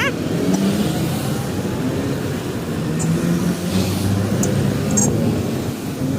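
Motorcycle engine running at cruising speed with road and wind noise, its pitch drifting slightly with the throttle. A few faint ticks come in about halfway through.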